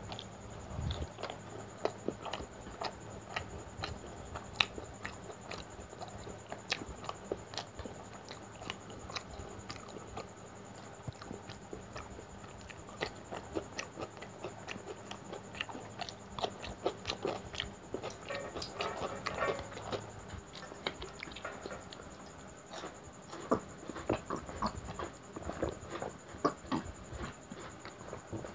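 Close-up mouth sounds of a person eating luchi with mutton curry and raw cucumber by hand: wet chewing, biting and lip-smacking, with many irregular clicks.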